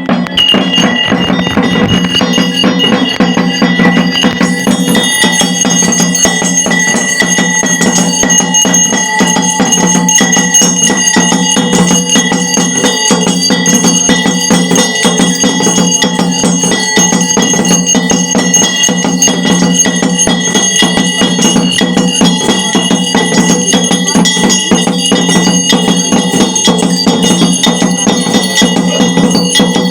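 Bells ringing loudly and continuously with rapid strikes, as part of devotional ritual music over a steady low drone.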